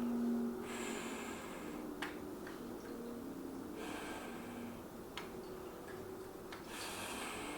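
A man breathing hard from the exertion of a dumbbell exercise set: three noisy breaths about three seconds apart, with a few light clicks between them.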